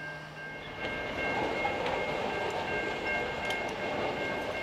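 Freight train of boxcars rolling past, with a steady rolling noise that gets louder about a second in and a steady high-pitched squeal over it.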